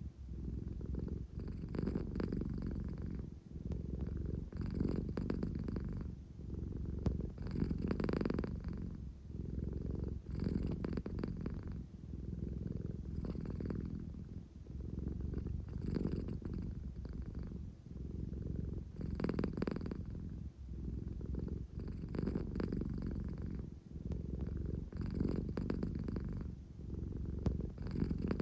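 American Shorthair cat purring steadily, a low rumble that swells and eases with each breath, about one cycle every three seconds. It is the drowsy, contented purr of a cat that is sleepy and seeking affection.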